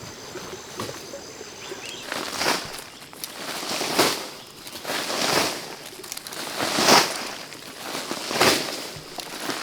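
Slow footsteps crunching through dry leaf litter, one step about every one and a half seconds, starting about two seconds in.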